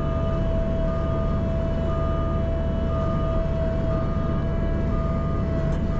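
CAT 304 mini excavator running steadily, with a constant high whine and an electronic warning beep that repeats about once a second.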